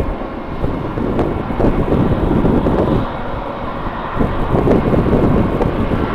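Strong gusty wind buffeting the microphone in uneven surges, over the faint steady whine of distant jet airliner engines.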